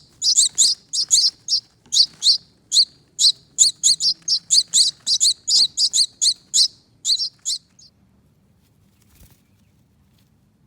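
Baby finches giving rapid, high-pitched begging chirps, several a second, the calls of hungry young birds being fed. The chirping stops about three-quarters of the way through.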